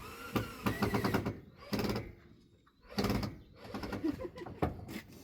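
Irregular knocks and clatters of wooden pallet boards being handled and fixed in place, some coming in quick runs.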